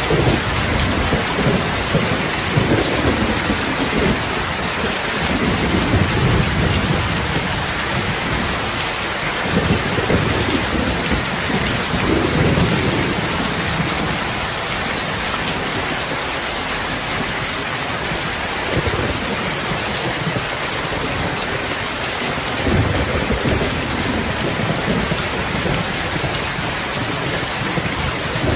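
Steady heavy rain with rolling thunder, the low rumble swelling and fading several times.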